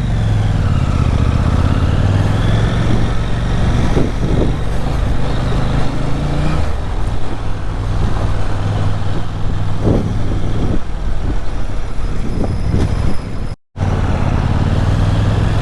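KTM motorcycle engine running steadily while riding, under a steady noisy rush. The engine note changes a little before halfway through, and the sound cuts out for a split second near the end.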